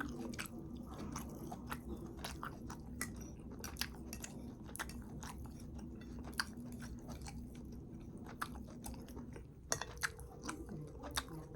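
A person chewing a mouthful of food: faint, irregular small wet clicks and smacks of eating.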